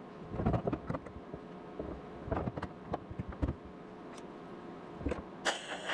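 Irregular knocks and clanks of hand tools and a vise grip against a car's sheet-metal quarter panel, then near the end a short hiss of a TIG welder striking a tack weld.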